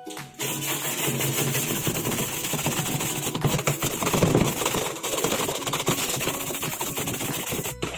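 A machine with a motor running steadily, under a loud hiss. It starts about half a second in and cuts off suddenly near the end.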